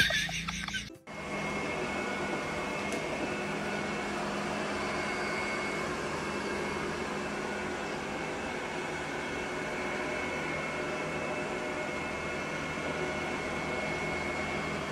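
Robot vacuum cleaner running steadily, an even motor whir with a faint high constant whine. It follows a brief louder sound that cuts off abruptly about a second in.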